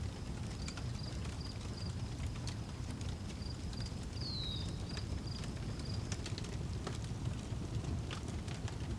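Outdoor wood fire crackling with scattered sharp pops over a steady low rumble, while a cricket chirps about three times a second. A single short, falling bird whistle sounds about four seconds in.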